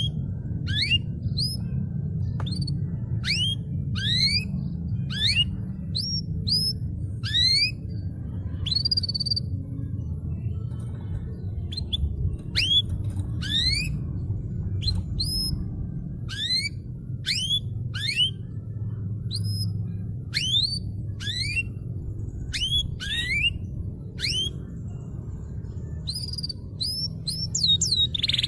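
Domestic canary calling in a run of short, rising whistled notes, about two a second, over a steady low hum.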